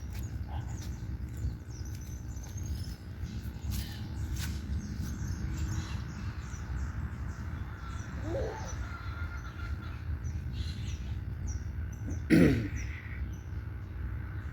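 Many birds chirping and twittering over a steady low rumble, with a short lower call about eight seconds in and a louder, fuller bird call near the end.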